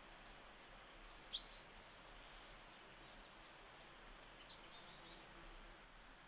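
Faint outdoor background with two short, high bird chirps, one about a second and a half in and a weaker one about three seconds later.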